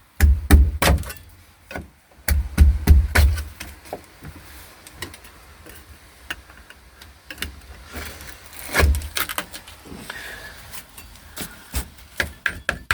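Irregular knocks, clicks and scraping from a car's bare floor pan being handled and prodded, checking how solid the metal is, with heavy low thumps near the start, around two to three seconds in and near the ninth second.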